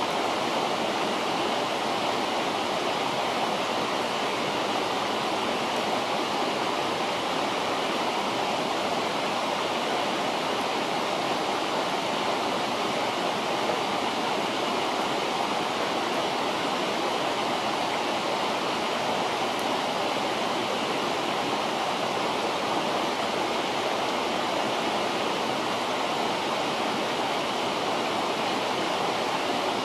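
A river's water rushing steadily, an even unbroken noise.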